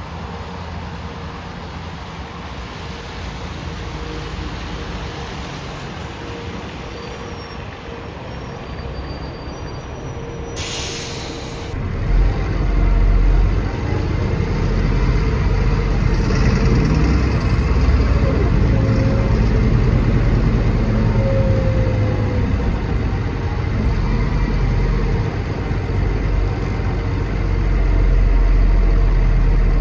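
Diesel bus engine running at a low, steady level. About ten seconds in there is a short, loud hiss of compressed air from the bus's air system, and from about twelve seconds the engine grows louder as the bus pulls away under load.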